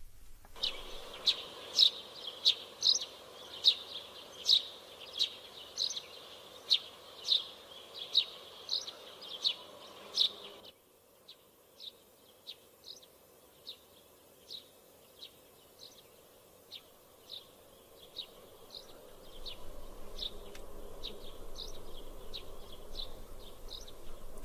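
Small birds chirping in short, repeated high chirps, about two a second, the morning-birdsong cue of a dawn scene. The chirps are louder over the first ten seconds, then fainter, and a low steady background hum rises over the last few seconds.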